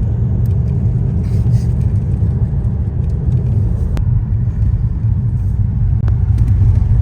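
Steady low rumble of a car driving, heard from inside the cabin: tyre and engine noise on the road, with two faint clicks about four and six seconds in.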